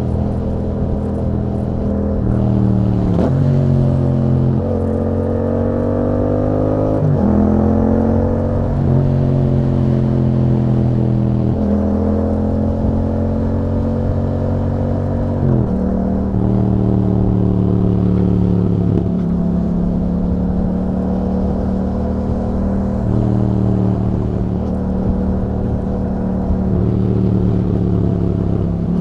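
2021 Yamaha MT-07's 689 cc parallel-twin engine running through an aftermarket Akrapovič exhaust with a dB-killer insert. Its note rises and falls with the throttle, with sudden drops in pitch every few seconds.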